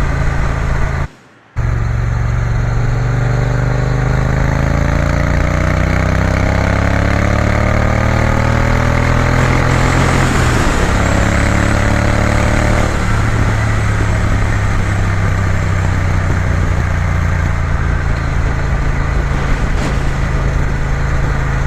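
Triumph Bonneville T120 parallel-twin engine pulling under way. It climbs steadily in pitch for about ten seconds, drops back at a gear change, then runs steady at cruising speed, with wind rushing past. The sound cuts out briefly about a second in.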